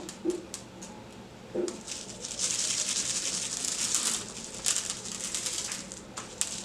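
Small decorative stones being handled and pressed into glue: scattered light clicks, with a rattling, crinkling stretch of a couple of seconds in the middle.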